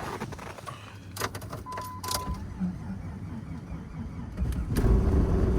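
A few clicks and a short electronic chime beep, then near the end the Jeep Grand Cherokee's 4.0L straight-six is cranked over in deep cold, a low rumble getting much louder. It is a hard cold-weather start that the engine does not like, even on a new battery.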